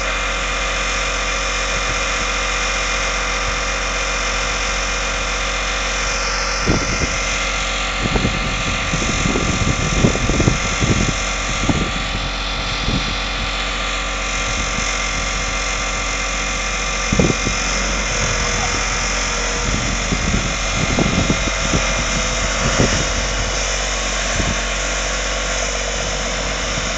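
Vehicle engines running steadily while a pickup truck is pulled out of soft sand on a tow strap, with irregular knocks and bumps through the middle of the pull.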